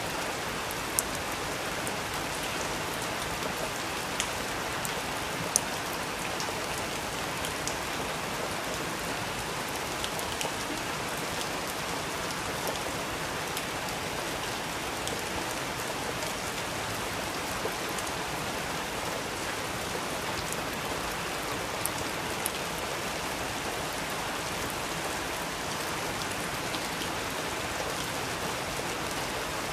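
Steady rain falling, an even hiss with a few louder sharp ticks now and then.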